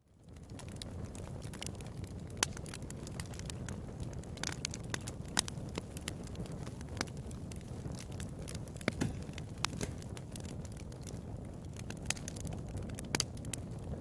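Wood fire burning in a fireplace: a steady low rumble of flame with irregular sharp crackles and pops, a few louder snaps standing out.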